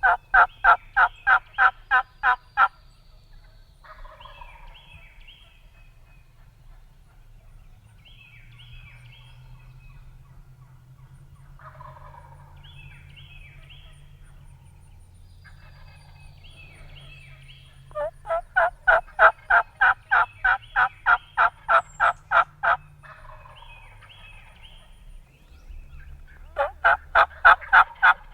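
Turkey calling: a loud, fast series of evenly spaced notes, about four or five a second, at the start. It comes again for about five seconds from some 18 seconds in and once more near the end, with softer, broken calls in between.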